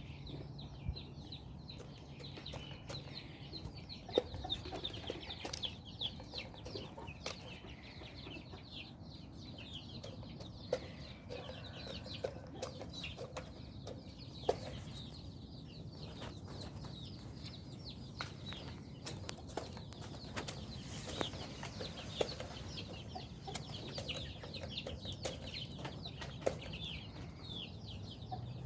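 Chickens clucking, with many short high chirps throughout and scattered sharp clicks.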